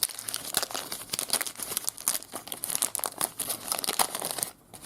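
Trading card pack wrapper crinkling and crackling as it is opened by hand, a dense run of crackles that eases briefly near the end.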